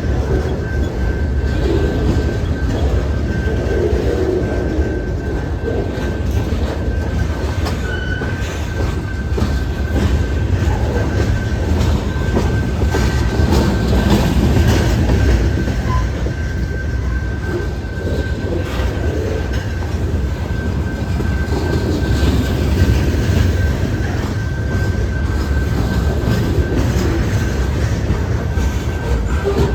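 CSX freight train rolling past with a deep steady rumble and wheels clacking over rail joints. A thin, steady high-pitched squeal runs under it throughout.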